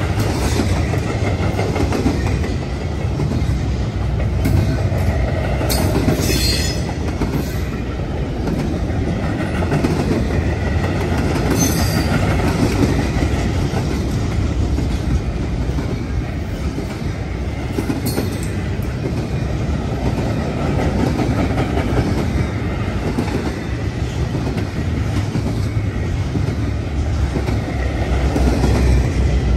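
Cars of a Canadian National intermodal freight train rolling past, a steady rumble and clatter of wheels over rail joints, with a few short high-pitched screeches from the wheels.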